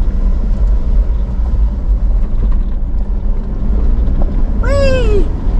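4x4's engine and tyre rumble heard from inside the cabin while driving a steep dirt track. A short falling cry comes about five seconds in.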